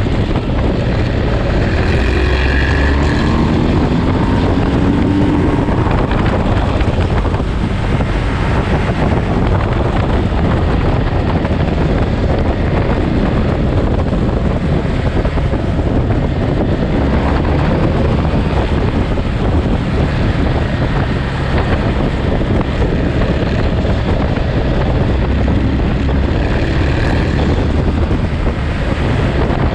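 Wind rushing over the microphone of a moving motorcycle, with a Ducati Monster's V-twin engine running underneath; the engine's pitch rises briefly a few seconds in.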